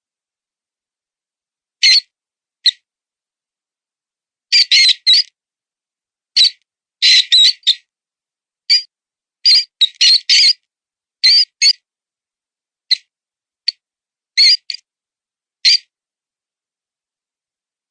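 Mouse-distress predator call: short, high-pitched squeaks imitating a wounded mouse, some single and some in quick runs of three or four, at irregular intervals with dead silence between.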